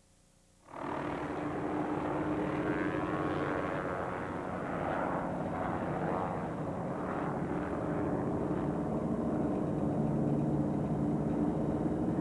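Jet-engine wind machine running steadily at high power, a loud turbine tone over rushing air; it comes in suddenly under a second in.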